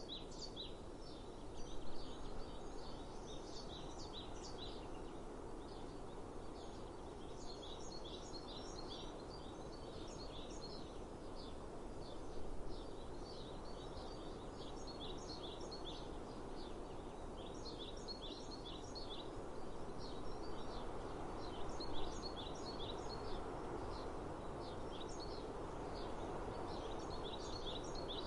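Small birds chirping in quick high clusters again and again over a steady outdoor hiss, with a few brief louder peaks.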